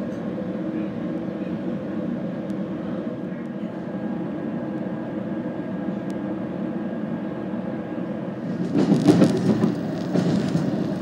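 Passenger train running, heard from inside the carriage as a steady rumble. For about two seconds near the end a louder rushing clatter rises over it.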